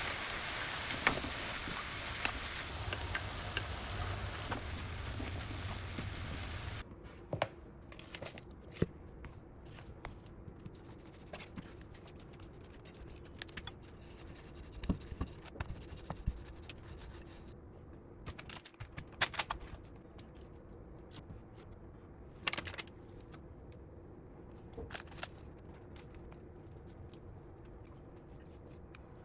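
A steady hiss that cuts off about seven seconds in, followed by scattered light taps, clicks and scrapes of kitchen handling.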